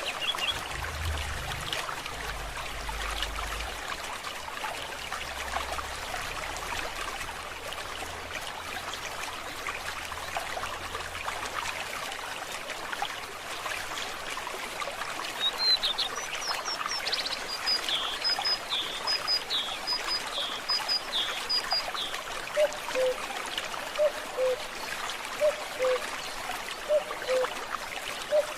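Forest stream trickling and burbling steadily. About halfway through, a bird sings a quick series of high, repeated short notes for several seconds, and near the end a lower two-note call repeats about every second and a half.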